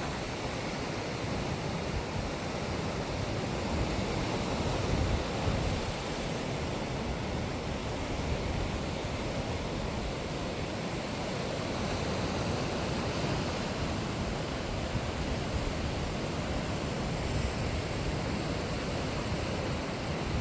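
Sea waves surging and breaking on the shore as a steady wash of surf, with wind rumbling on the microphone.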